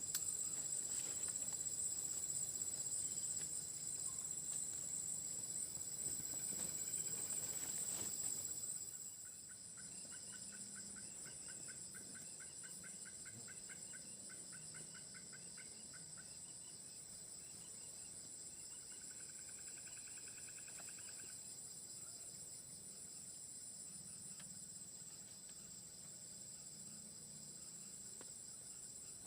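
Forest insects chirring in a steady high-pitched chorus, louder for the first nine seconds. An animal gives a rapid pulsing call from about ten to sixteen seconds in and a shorter trill near twenty seconds.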